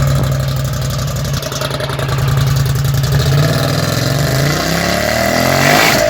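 Polaris Scrambler 1000 ATV's twin-cylinder engine running through freshly straight-piped exhaust. It idles steadily, then revs up in a rising climb over the second half, peaking near the end.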